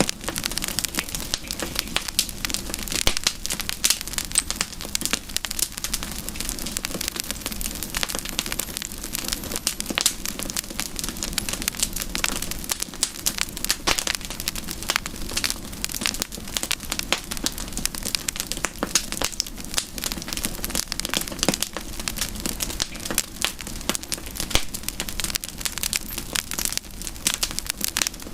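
Campfire crackling: many irregular pops and snaps over a steady hiss.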